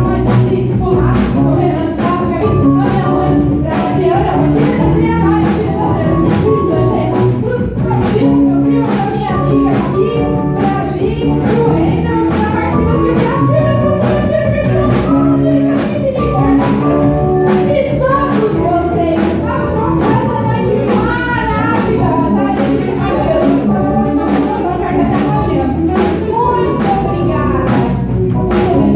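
A live rock band playing a song with a steady drum beat, and a voice singing over it.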